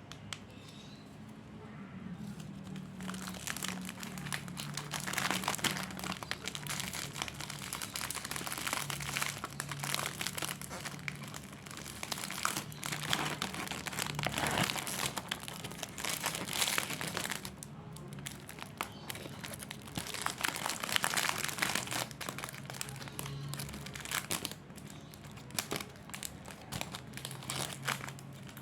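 Plastic snack packaging and bags crinkling continuously as they are handled and packed, in irregular crackling rustles with a few short lulls.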